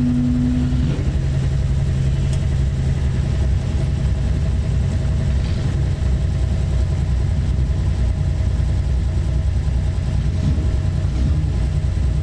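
Classic Nissan Skyline (Ken-Mary) engine and exhaust running steadily at low revs, a low rumble. A steady tone in the engine note drops away about a second in.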